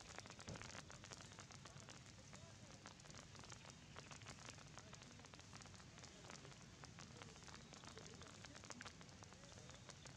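Faint light rain pattering, a dense stream of small drop ticks over a soft hiss.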